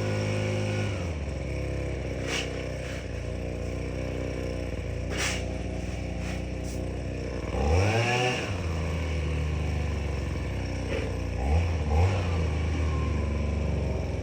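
Tractor engine running steadily, its speed dropping slightly about a second in. About eight seconds in the revs swing briefly, and two short blips of throttle come near the end. A few light clicks sound over the engine.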